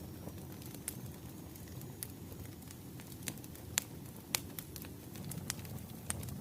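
Wood fire burning with a low steady rumble and irregular sharp crackles and pops from the burning logs. The loudest pops come a little before the middle.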